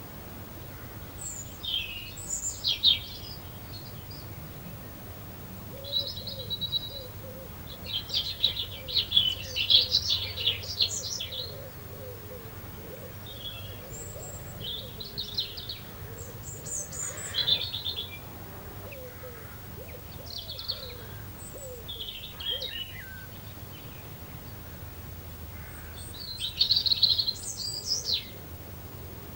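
Small garden songbirds singing and chirping in short bursts of quick high notes, a phrase every few seconds, over a faint steady low background rumble.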